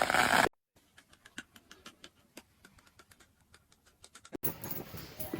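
A loud, noisy sound cuts off suddenly about half a second in. Faint, scattered light clicks and taps follow, a few a second, and a steadier noisy sound starts again shortly before the end.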